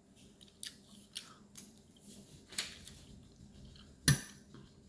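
Close-up chewing with scattered short, wet clicks and smacks of the mouth, and one louder sharp click about four seconds in.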